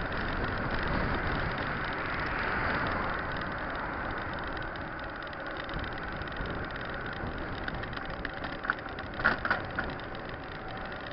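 Steady rushing noise of a mountain bike on the move: wind on the microphone and tyres rolling over the trail, with a few sharp clicks or rattles about nine seconds in.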